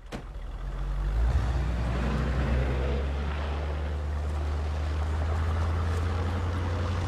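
Old car's engine running as the car drives slowly forward, rising over the first second or so and then holding a steady low hum.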